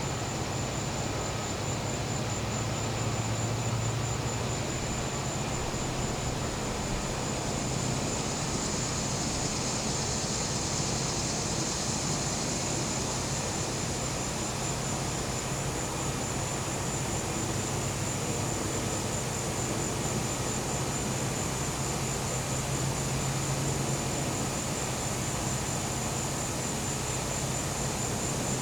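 Steady hum of a gas-powered generator with a constant high, pulsing insect trill over it. The trill swells for a few seconds around the middle.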